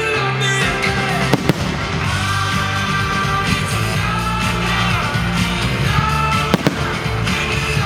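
Fireworks going off, with a few sharp bangs (two close together about a second and a half in, another near the end), over loud pop music with singing.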